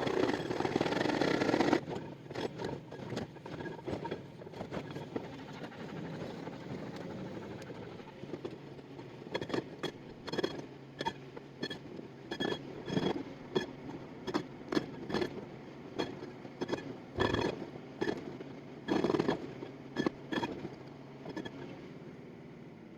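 Excavator fitted with a hydraulic breaker working on bedrock. A loud, dense stretch of hammering in the first two seconds stops abruptly. Then the machine's engine runs steadily under irregular sharp knocks and scraping of steel on rock.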